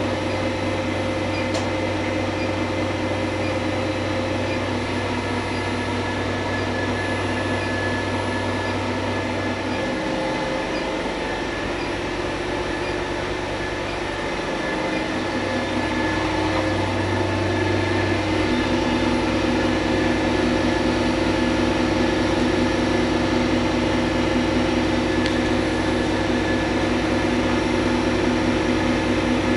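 Steady mechanical hum of machinery running, with several steady tones. The low hum drops away about ten seconds in, comes back, and the whole sound grows a little louder from about halfway through.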